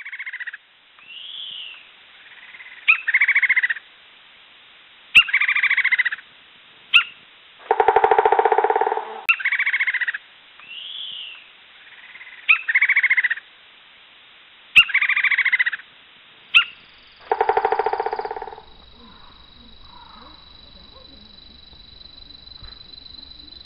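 An animal's calls: about a dozen short, high cries that rise and fall in pitch, coming in ones and pairs. Two longer, lower calls come near the middle and again after about seventeen seconds. After that there is only a faint, thin high whine.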